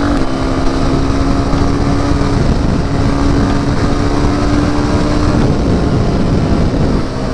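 2020 Honda CRF250F's single-cylinder four-stroke engine running at a steady cruising pitch while riding; about five and a half seconds in the steady note breaks off and the engine sound turns rougher.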